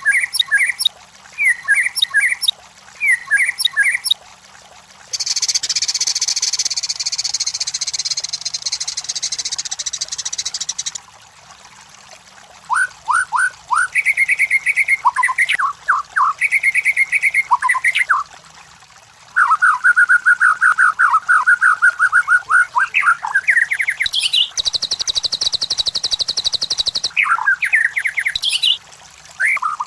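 White-rumped shama (murai batu) singing a varied song of whistled chirps, slurred notes and trills. A long harsh buzzing rattle comes about a fifth of the way in. A steady trill follows past the middle, and a second buzzing rattle comes near the end.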